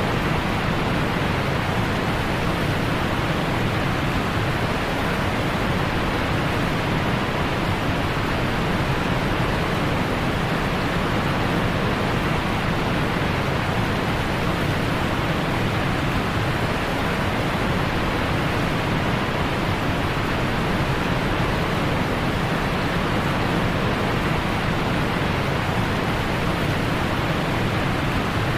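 Steady roar of a large waterfall, the Dudhsagar falls: an even rushing of falling water that holds constant throughout.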